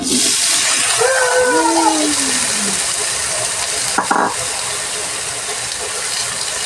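Chopped vegetables tipped into a hot wok, setting off a sudden loud sizzle that carries on steadily and slowly eases. A short clank about four seconds in.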